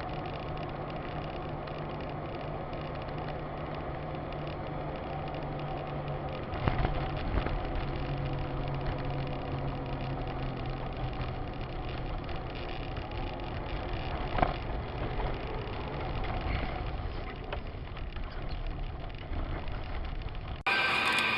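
Car engine running steadily as a dashcam records it, getting louder about a third of the way in, with a single sharp knock about two-thirds through. Near the end it cuts abruptly to louder music.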